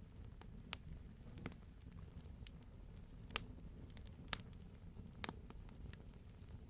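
Campfire crackling: a low, steady rumble of burning wood with sharp pops and snaps scattered irregularly through it, the loudest pops about three and a half and four and a half seconds in.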